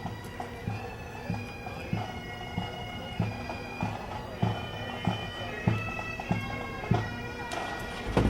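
Bagpipes playing a tune over their steady drones, with a regular low thump keeping time about every 0.6 seconds.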